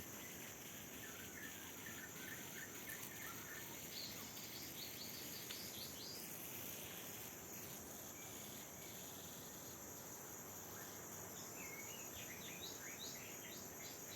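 A steady high-pitched trill of insects, with short runs of quick bird chirps over it: about a second in, again around four to five seconds, and near the end.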